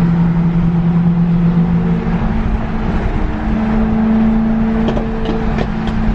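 BMW E93 M3's V8 engine droning steadily at highway cruising speed, heard from inside the cabin over heavy road rumble. About two seconds in, the drone steps up to a higher pitch and holds there.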